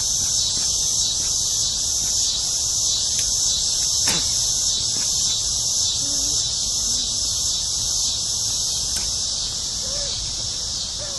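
Dusk chorus of insects singing a loud, high-pitched, rhythmically pulsing drone without a break. A brief falling sweep cuts through about four seconds in.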